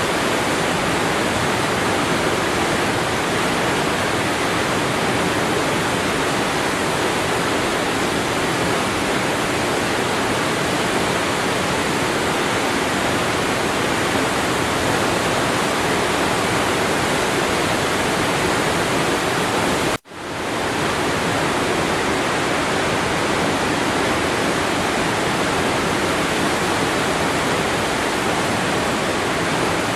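Waterfall: a steady rush of falling water. About two-thirds of the way through it cuts out for an instant, then fades quickly back in.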